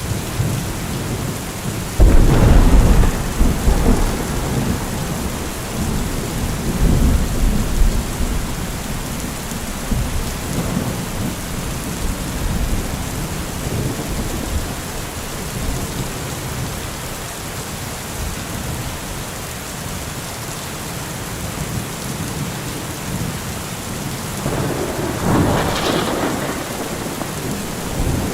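Steady rain with two rolls of thunder. A sudden loud thunderclap about two seconds in rumbles on for several seconds, and a second, softer rumble comes near the end.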